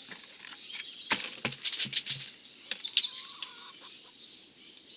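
A quick run of sharp clicks and rattles from tools or materials being handled, about one to two seconds in, followed by a short bird chirp about three seconds in.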